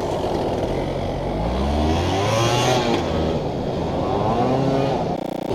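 Small pit bike engine revving up and down as the bike is ridden, its pitch rising and falling a few times over a rough, gritty background.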